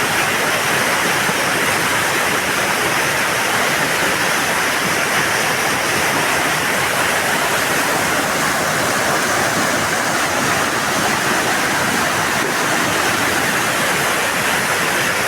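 Steady rush of flowing stream water, an even hiss without let-up.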